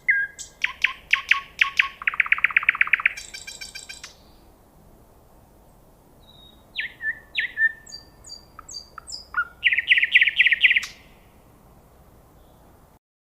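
A songbird singing two phrases of whistled notes and rapid trills, with a pause of about two and a half seconds between them.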